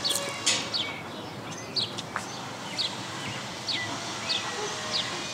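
Birds chirping outdoors: short, high calls that drop in pitch, several a second, over a steady background hiss.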